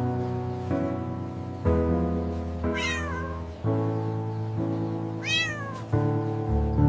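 Background music of held chords that change every second or two, with a cat meowing twice, about three and five seconds in. Each meow falls in pitch.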